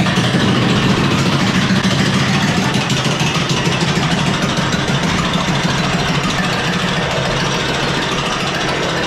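Amusement ride car running along its track: a loud, steady rumble and rush that holds throughout.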